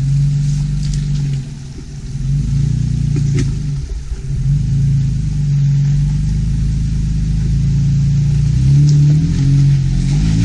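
Off-road vehicle's engine running steadily under throttle, easing off briefly twice, then revving up about eight and a half seconds in. Scattered light clicks and knocks sound over it.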